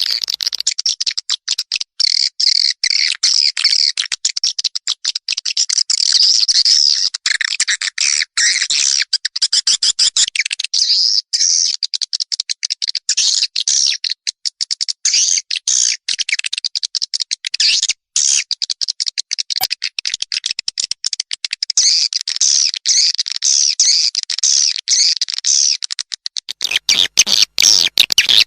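Edible-nest swiftlet lure call: a recorded track of dense, rapid, high-pitched swiftlet twittering and chirping, broken into very short bursts. It is played to draw swiftlets in to a nesting house.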